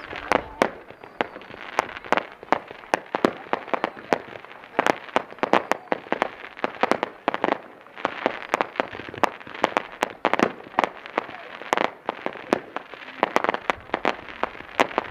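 Fireworks crackling and popping: a dense, irregular run of sharp cracks, several a second, with no deep booms.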